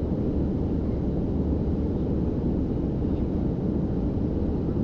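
Steady low cabin noise of an airliner in flight, engine and airflow heard from inside the passenger cabin as an even rumble.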